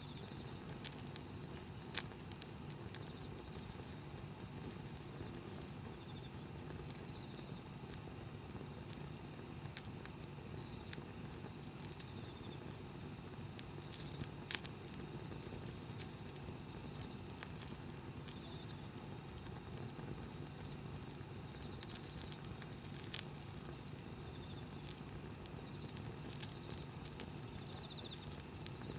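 Wood campfire burning with a faint steady crackle and a few sharp, isolated pops spread through.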